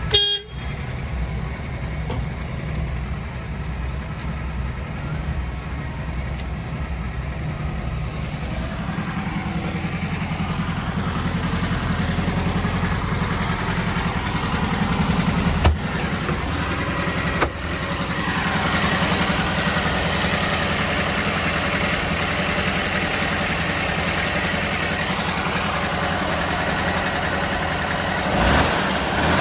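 Air-cooled 1600 single-port flat-four engine of a 1968 Volkswagen bus running at idle. It steps up to a louder, busier note a little past halfway through, and there are two sharp clicks shortly before that.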